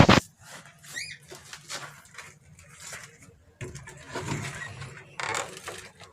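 Caged budgerigars chirping in short high calls, mixed with knocks and rustles of cage handling; a loud knock comes right at the start.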